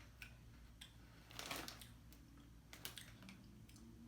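Near silence with a few faint scattered clicks and a brief rustle about a second and a half in.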